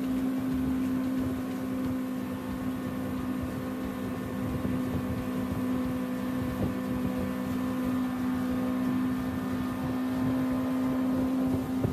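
An engine running at a steady speed: a constant hum with a rough, noisy undertone, unchanging throughout.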